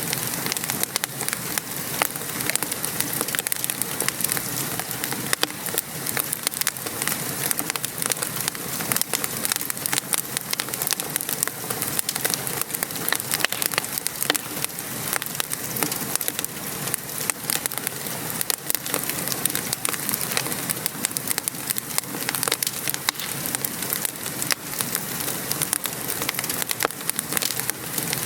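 Steady rain falling, mixed with the dense, irregular crackling and popping of a wood fire.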